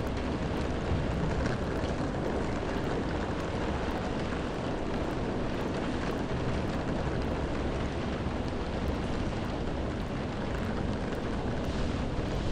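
Steady rain falling, an even, unbroken hiss heaviest in the low end.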